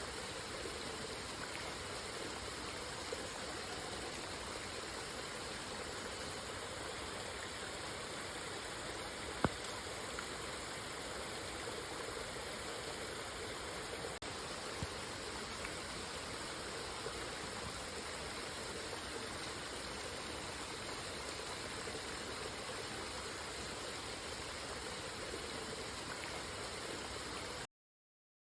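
Steady rain falling, an even hiss with a few single drop ticks, one sharper than the rest about nine seconds in. It cuts off suddenly just before the end.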